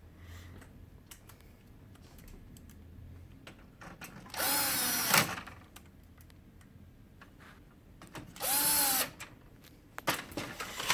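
Small handheld power tool motor running in two short bursts, the first about a second long and the second about half a second, each spinning up and winding down. A few clicks of handled parts come near the end.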